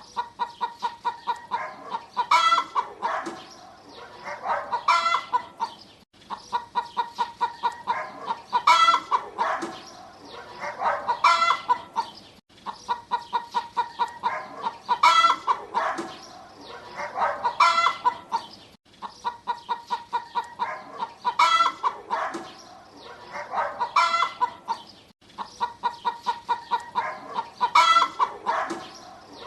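Hen clucking in quick runs of short notes broken by louder cackling calls, the same phrase repeating about every six seconds.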